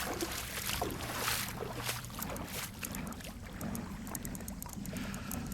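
Legs wading through floodwater, the water sloshing and swishing with each stride, loudest in the first two seconds.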